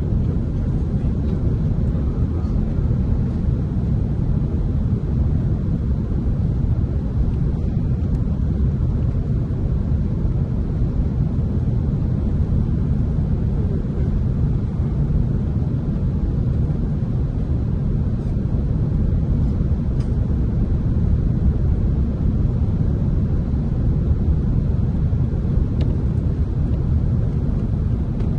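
Steady low rumble of an Airbus A330-300 airliner in flight, heard from inside the passenger cabin: engine and airflow noise.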